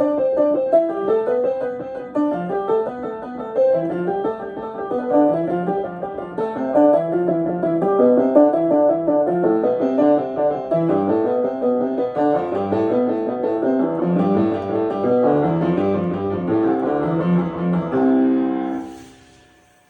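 Piano practice: fast, evenly paced notes running in a repeating up-and-down pattern, typical of a finger exercise. The passage ends on a held chord near the end, which dies away.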